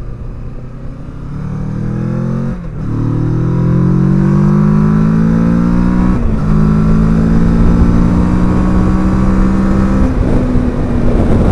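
Kawasaki Versys 650's parallel-twin engine accelerating through the gears. The revs climb, drop at an upshift about two and a half seconds in, climb again to a second upshift about six seconds in, then run steady at speed.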